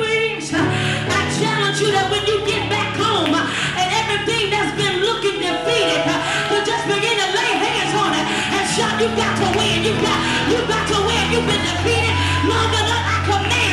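Live gospel band playing an upbeat song with a steady, fast drum beat and a held bass line, with voices singing over it.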